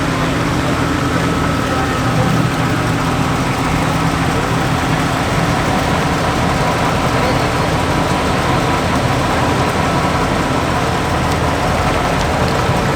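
Engines of American cars running at idle: a steady, low rumble with no revving.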